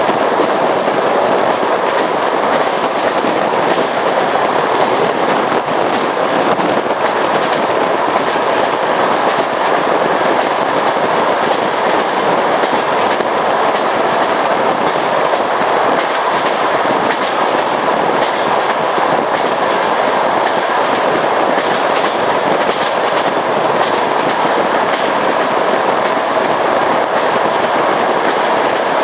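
Russian passenger train running steadily at speed: a constant rumble of wheels on track, with the clickety-clack of the wheels going over rail joints.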